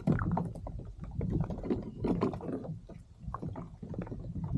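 Irregular knocks and clicks with low rumbling: fishing gear being handled aboard a kayak.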